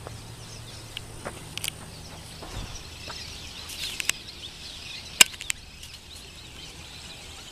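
Birds chirping over steady riverside outdoor ambience, with a few sharp cracks, the loudest about five seconds in.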